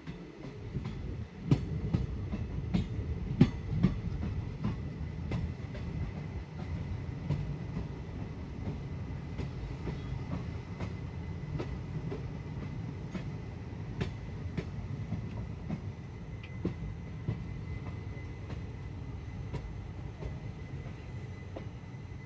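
Passenger coach of the Guruvayur–Madurai Express running along the track, heard at an open doorway. The wheels on the rails make a steady rumble with irregular clicks and knocks, strongest in the first few seconds.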